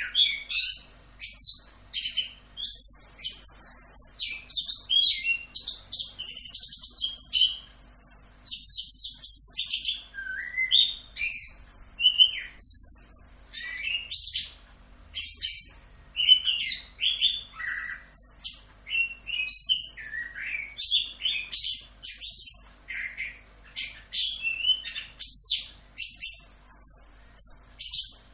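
Orange-headed thrush (anis kembang) singing a long, continuous song of fast, varied whistled phrases, the rolling 'ngerol' song. The song starts abruptly after a quiet spell and keeps going without a break.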